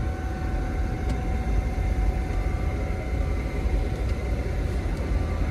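A vehicle engine idling with a steady low rumble and faint hum, heard from inside a car's cabin.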